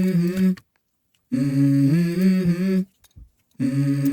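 Music intro: a hummed vocal melody of held notes stepping up and down, in short phrases cut by a full silence at about the first second and another near three seconds in.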